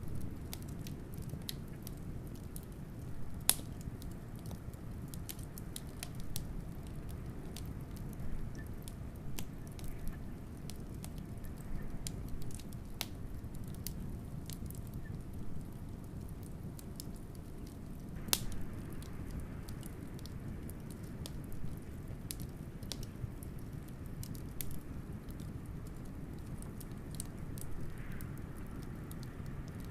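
Wood fire crackling with scattered small pops and a couple of louder snaps, over a steady low rumble of blizzard wind.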